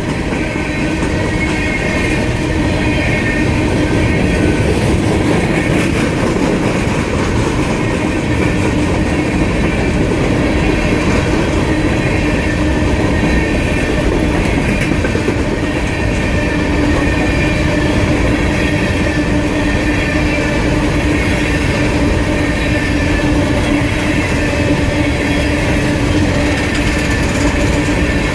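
A long train of empty coal hopper cars rolling steadily past at close range: a continuous loud rumble of wheels on rail with a steady whine running through it.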